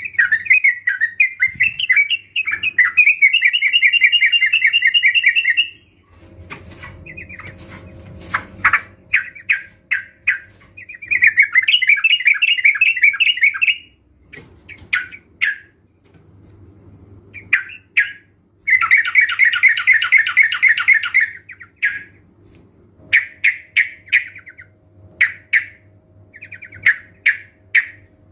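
Several sooty-headed bulbuls (trucukan) calling together: bursts of rapid chattering notes, some running for a few seconds and others short, with brief pauses between.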